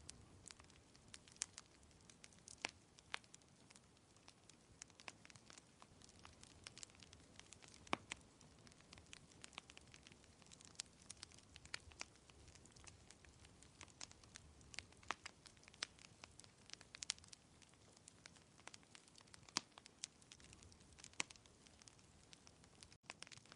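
Wood fire crackling in a fireplace: irregular sharp pops and snaps, several a second, over a soft steady hiss. The sound cuts out for an instant near the end.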